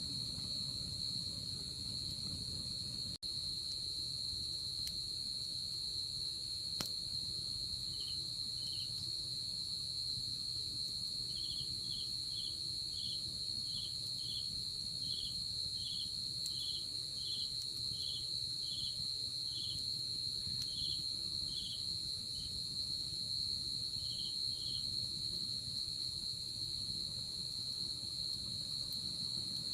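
Night insects calling: one insect keeps up a continuous high trill, and a second joins about a quarter of the way in, chirping in a slow regular series until near the end. Beneath them a low, even rumble and a faint crack or two from a campfire burning.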